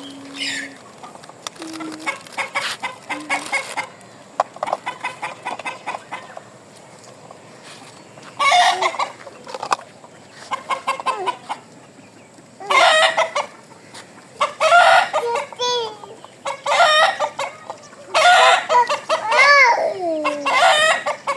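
Loud bird calls, each about a second long with a wavering pitch, repeated about seven times from around eight seconds in. Softer rapid chatter comes before them.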